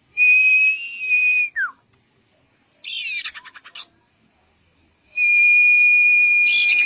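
Common iora singing: two long, steady, high whistled notes, the first ending in a quick falling note. A short rattling chatter sounds between them, and another chatter runs over the end of the second whistle.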